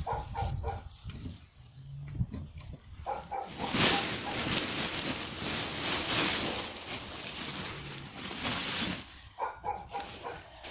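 Dry leaves rustling as an armful is tipped and spread as mulch, a dense rustle lasting about five seconds from a few seconds in.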